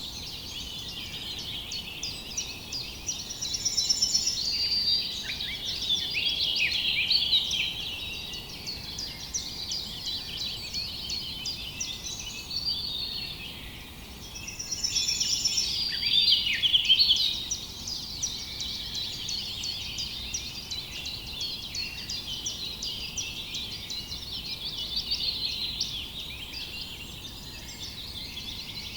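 Many small songbirds chirping and singing at once, a dense chorus of quick overlapping chirps and trills, with busier, louder stretches about every twelve seconds.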